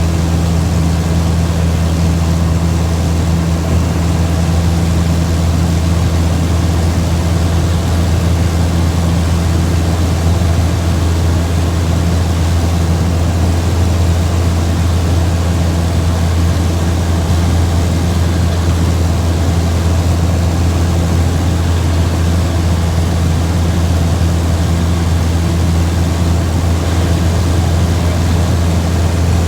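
Steady, unchanging low engine drone.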